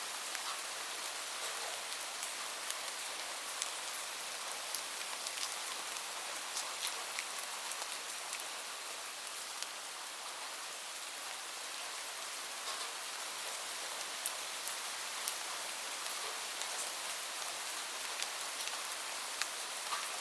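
Steady rainfall, an even hiss with scattered sharp drops ticking throughout.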